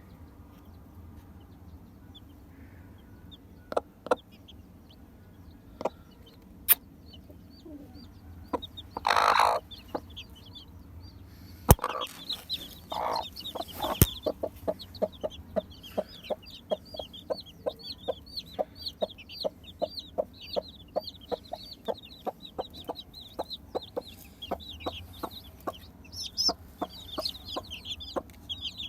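Baby chicks peeping: many short high cheeps overlapping, starting about a third of the way in and growing dense, over a run of quick light clicks. A brief rustling burst comes just before the peeping starts.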